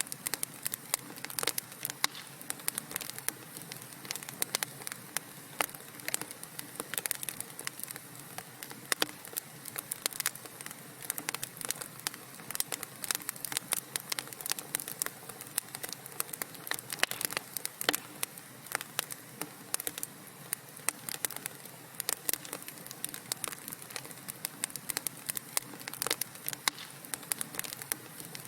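Wood fire burning in a fireplace, crackling and popping: many irregular sharp crackles over a steady soft hiss of the flames.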